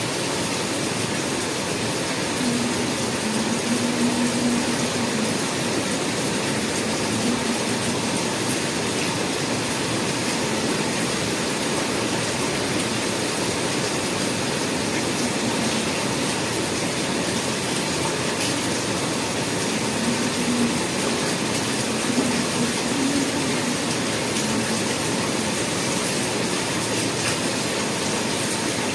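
Heavy rain falling steadily in a constant, even rush.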